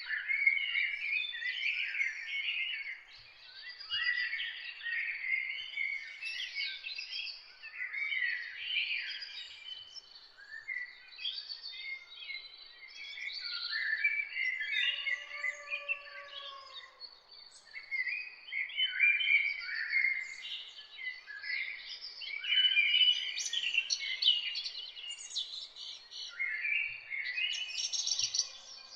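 Several songbirds singing and chirping at once, a dense chorus of short, high, overlapping calls and trills. About halfway through, a single lower call rises and falls in pitch beneath them.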